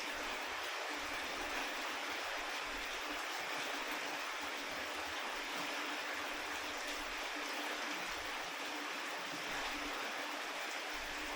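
Steady rain falling, an even hiss of drops without let-up, with a faint low steady hum underneath.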